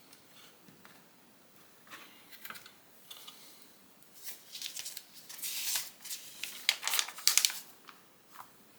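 Plastic Lego pieces clicking and rattling as they are handled and pressed together, with a busier run of sharp clicks and rustling in the second half.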